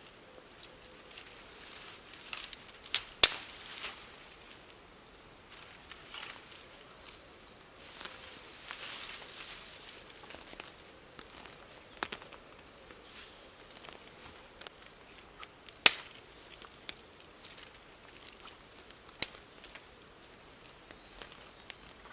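Dry branches and brush being cleared by hand: sharp snaps of breaking sticks, the loudest a few seconds in and another pair later, among rustling and crackling of dead twigs and leaf debris.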